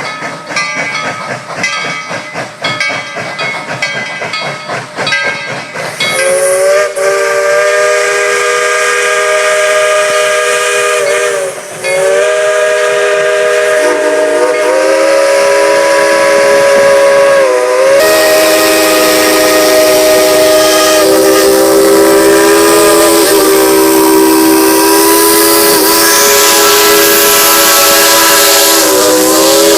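Steam locomotive working, its exhaust chuffing about twice a second, then its chime whistle blowing a long chord of several tones from about six seconds in. The whistle breaks off briefly about halfway through, then sounds on to the end.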